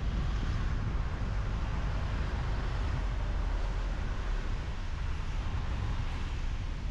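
Car driving at steady speed: constant low road rumble from the tyres with an even rush of wind noise.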